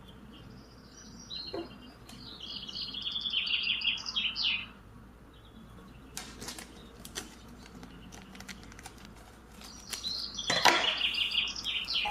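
Bird chirping in two runs of quick high notes, the first about a second and a half in, the second near the end, with scattered faint clicks between.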